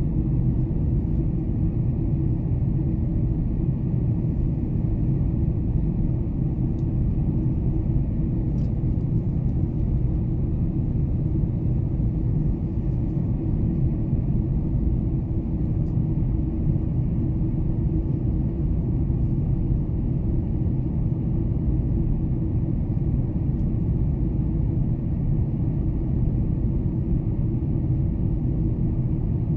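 Steady low rumble of a Boeing 747-400's engines and rushing air, heard inside the passenger cabin in flight after takeoff.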